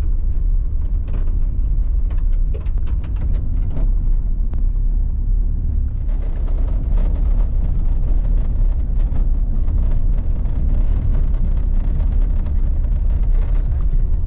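Vehicle driving on an icy road spread with gravel, heard from inside the cabin: a steady low rumble of engine and tyres, with scattered clicks in the first few seconds and a louder tyre hiss from about halfway.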